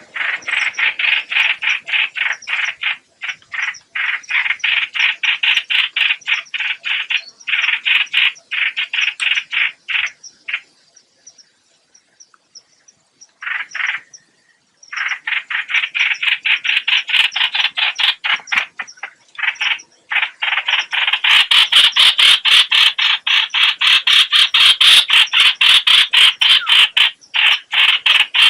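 Recorded lure call of the hoạch hoạch bird: a rapid run of repeated notes, about four or five a second, in long bursts broken by short pauses, and louder in the last several seconds.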